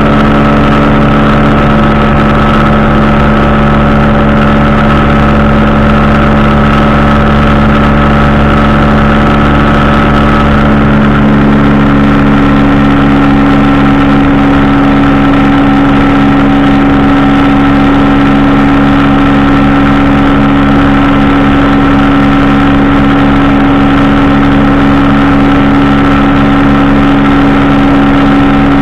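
Powered parachute's engine and propeller running loudly and steadily in flight, its pitch shifting slightly about eleven seconds in.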